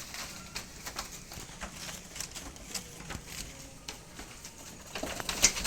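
Scattered clicks and knocks from penned goats moving about and feeding, with a louder cluster of knocks about five seconds in.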